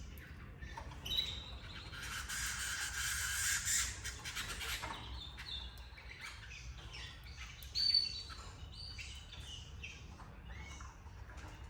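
Canaries chirping and calling: many short, high chirps, with a harsh, hissy burst of calling from about two to five seconds in and a sharp chirp near eight seconds. A steady low hum sits underneath.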